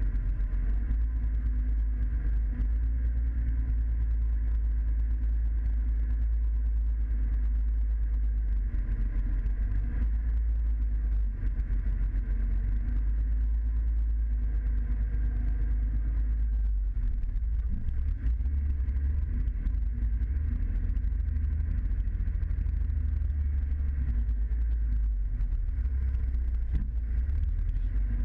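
Scania truck's diesel engine running with a steady, deep drone.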